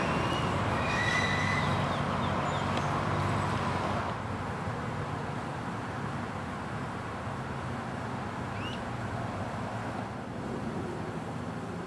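Steady road traffic noise, louder for the first four seconds and then easing off a little, with a brief high whine near the start and a short rising chirp later.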